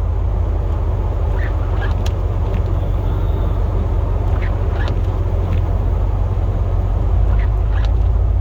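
Steady low drone of a pickup plow truck's engine and drivetrain as it drives, heard from inside the cab. Short squeaks come in small groups every few seconds.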